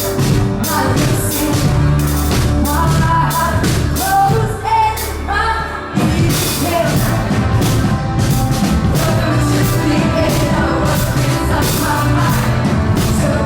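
Live pop-rock band music with a singer, drums and bass, heard through a crowd recording; the drums drop out briefly midway and come back in.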